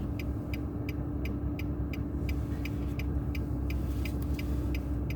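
Car driving with steady road and tyre rumble and a low hum, heard from inside the cabin, with the turn signal ticking evenly, about two to three ticks a second, ahead of a left turn.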